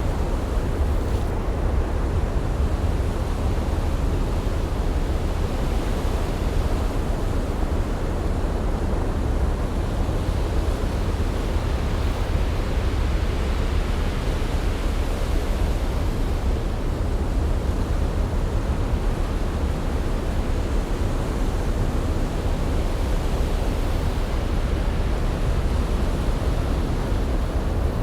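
Ocean ambience: a steady, even rushing noise with a deep rumble, with no separate wave breaks standing out.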